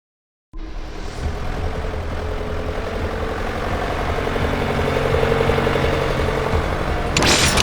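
Cartoon vehicle engine sound effect that cuts in abruptly about half a second in and runs steadily with a low rumble, growing slightly louder. A loud, harsh noisy burst begins near the end.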